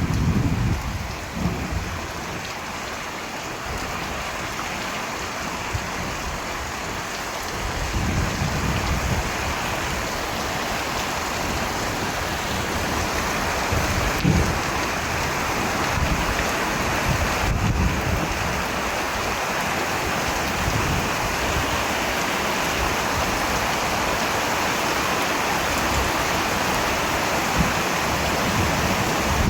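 Steady rain falling, with low rumbles swelling up underneath every few seconds.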